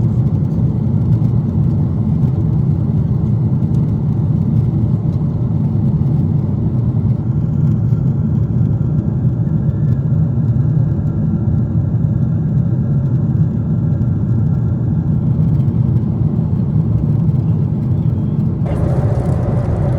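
Steady low rumble of airliner cabin noise inside a Boeing 747-8, from its jet engines and the airflow around the fuselage. Near the end, extra higher-pitched sound suddenly joins the rumble.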